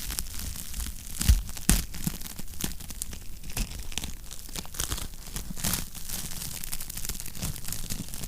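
Fire in a fireplace crackling: a steady run of small pops and snaps, with two louder pops close together about a second and a half in.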